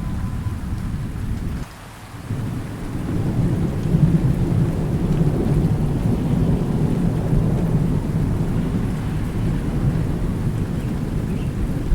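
Thunderstorm: low rolling thunder over steady rain. The rumble drops out suddenly for a moment about two seconds in, then comes back and swells to its loudest about four seconds in before settling into a steady rumble.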